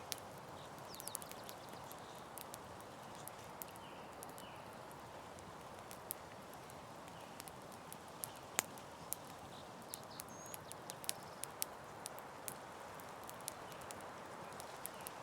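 Campfire crackling: a steady soft hiss with irregular sharp pops and snaps, the loudest a little past the middle.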